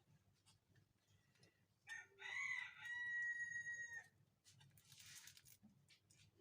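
A rooster crowing once, a call of about two seconds that ends on a long held note.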